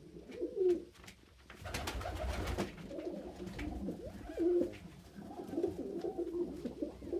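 Several domestic pigeons cooing, low warbling coos overlapping one another, with a short rustling burst about two seconds in.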